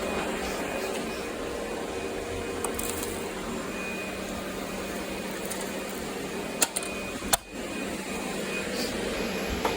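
Roomba robot vacuum running, a steady mechanical hum, with a couple of sharp clicks about two-thirds of the way through and a brief drop in the sound just after.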